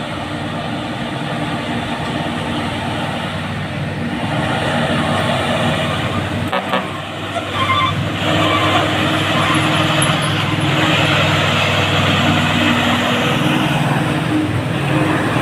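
Heavy diesel truck engines labouring up a climb, getting louder about halfway through as a truck comes closer, with a short horn toot around that point.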